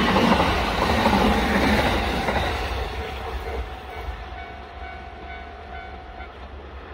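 A train running loudly, then fading steadily over the last four seconds as it moves away.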